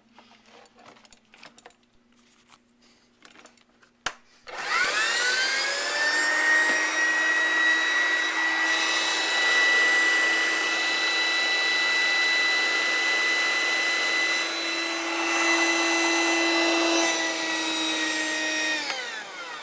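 Hoover shampooer-polisher's electric motor switched on with a click about four seconds in, spinning up with a rising whine, then running steadily and switched off near the end, its whine falling as it winds down. Faint handling clicks before it starts.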